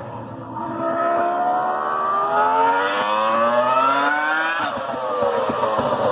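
Formula 1 car engine accelerating hard: its pitch climbs steadily for about four seconds, drops sharply at an upshift, then starts climbing again.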